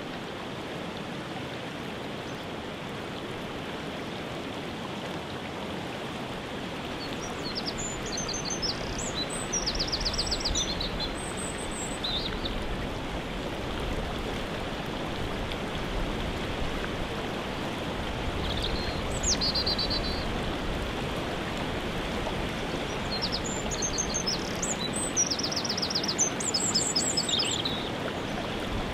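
Waterfall rushing steadily, with songbirds singing high, quick phrases of rapid repeated notes over it, in clusters about a quarter of the way in, around two-thirds of the way in, and again near the end.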